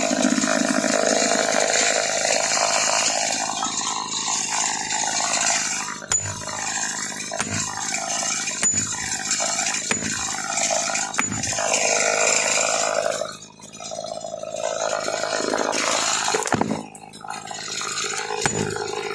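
Chainsaw running at high revs, cutting up felled aspen; it eases off briefly twice in the second half.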